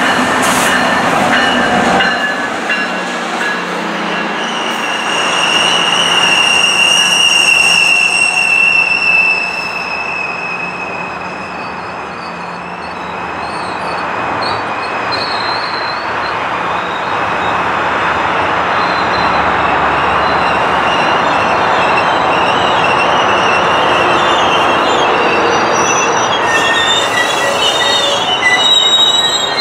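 GO Transit commuter train, a diesel locomotive hauling bilevel coaches, rolling past on the rails with a steady rumble of wheels and cars. High wheel squeals rise above it from about five to ten seconds in and again near the end.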